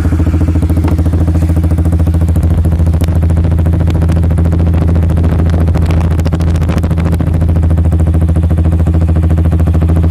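Motorcycle engine idling steadily through a WRX GP K1 aftermarket exhaust, a loud, even, rapid pulsing exhaust note at idle.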